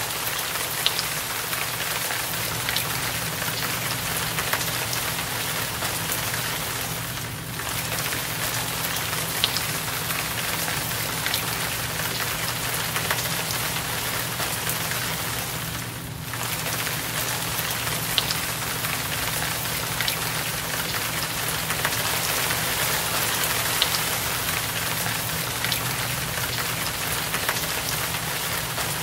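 Steady heavy rain, an even hiss with scattered sharp drips and a low hum underneath. It dips briefly twice.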